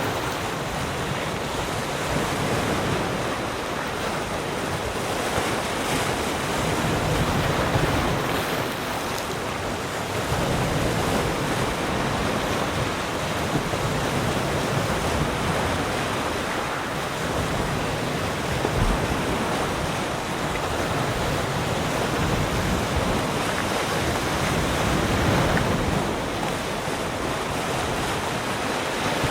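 Sea surf: waves breaking and washing on the shore in a continuous rush, swelling and easing every few seconds, with some wind noise on the microphone.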